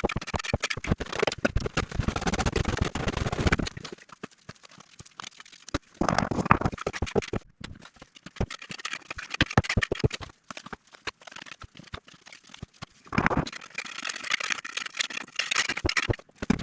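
Hand work on bricks and mortar: rough scraping, as of a trowel on mortar and brick, with many irregular knocks and clicks, in several stretches of busy work.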